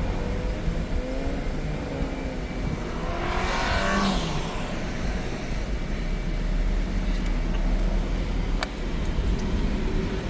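Car driving along a road, with a steady low rumble of engine and road noise. Another vehicle passes close by about three to four seconds in.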